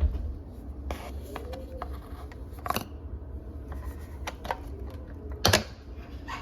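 Light clicks and knocks of small objects being handled, with two louder clacks, one near the middle and one about a second before the end.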